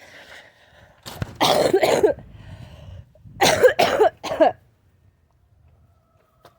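A person coughing in two fits of several hacking coughs each, bringing up phlegm from the chest, a lingering cough after bronchitis.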